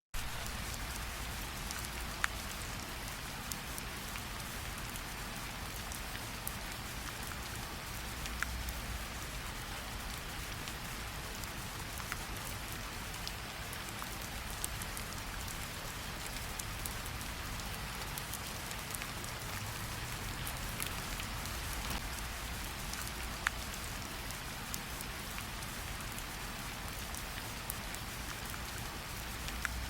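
Steady rain falling, with scattered distinct drops landing close by.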